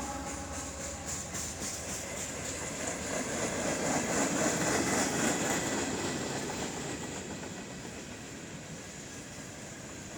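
Freight train cars rolling past on the rails, wheels clacking over joints. The rumble swells about four seconds in, then slowly fades.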